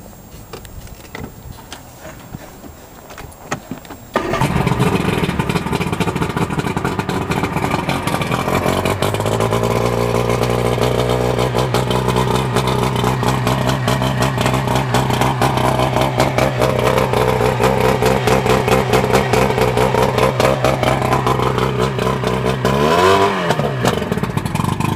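A boat's 125-horsepower engine starts suddenly about four seconds in, runs at a higher speed for a few seconds, then settles into a steady idle. Near the end it is blipped once, rising and falling in pitch, and then shut off. It is run only briefly on the trailer because it has no cooling water.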